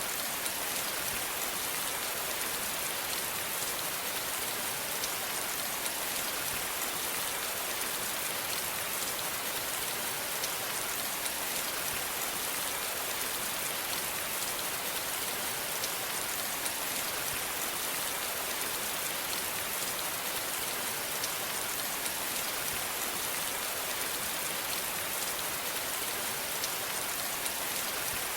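Steady rain falling, an even hiss of rainfall with many small drops ticking on a surface.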